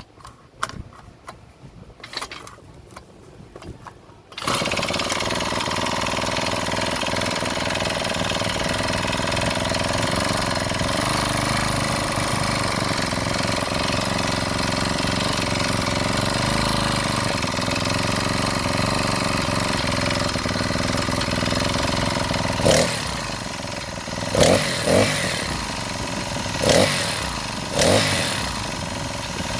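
Small four-stroke Honda engine on a homemade stand-up scooter: after a few clicks it starts suddenly about four seconds in and runs steadily, with several short louder bursts in the last seven seconds.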